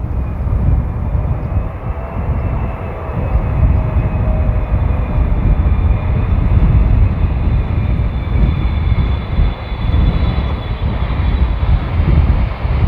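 Jet airliner on approach, its engine whine growing stronger and rising slightly in pitch in the second half, under heavy gusting wind buffeting the microphone.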